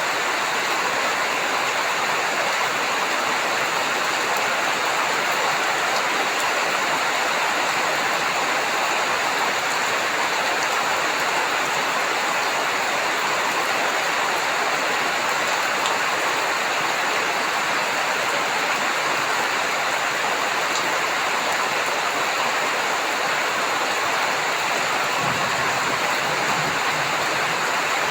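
Steady heavy rain, an even hiss of falling water with no breaks. About 25 seconds in, a low thunder rumble sets in under the rain.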